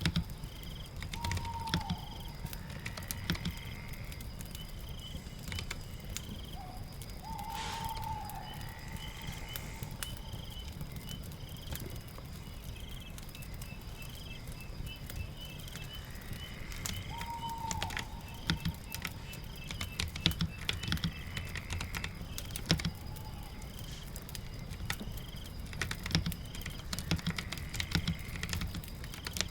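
Layered ambience: scattered sharp clicks from keyboard typing and a crackling fire over a steady low rumble, with bird chirps and short falling calls repeating throughout.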